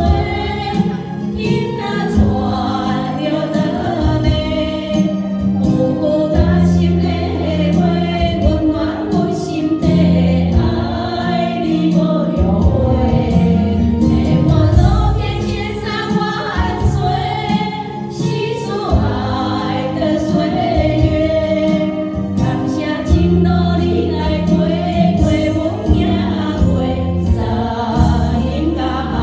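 A song: singing voices over instrumental backing with held low bass notes.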